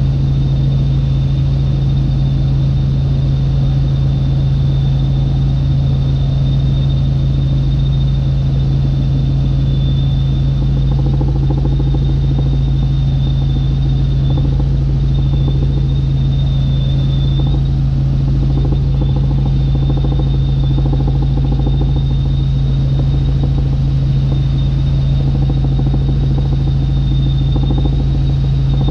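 Helicopter in flight, heard from inside the cabin: a loud, steady low drone and rumble with a thin, steady high whine above it.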